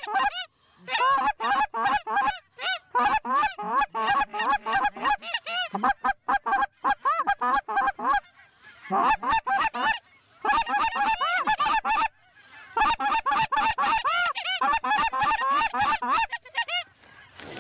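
Rapid Canada goose clucks and honks, several notes a second, in bursts of a few seconds with short pauses between.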